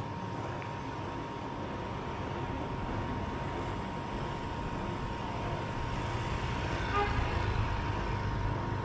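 Steady city traffic and road noise from a car driving through town, with a short horn-like toot about seven seconds in.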